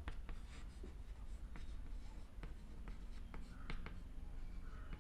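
Faint scratching and short taps of a pen writing.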